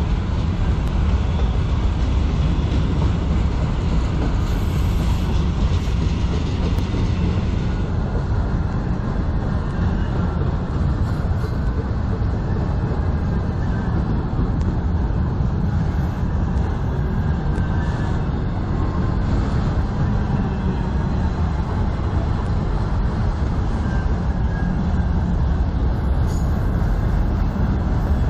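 Autorack freight cars of a manifest train rolling past, a steady rumble of steel wheels on rail.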